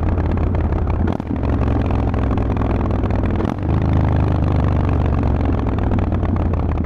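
Harley-Davidson Forty-Eight's air-cooled V-twin running through a Vance & Hines exhaust while riding. The exhaust note is loud and steady, with two short breaks, about a second in and again about three and a half seconds in.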